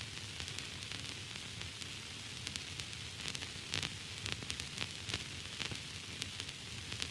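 Steady static hiss, brightest in the upper range, with irregular crackles and pops scattered throughout, like an untuned radio or TV.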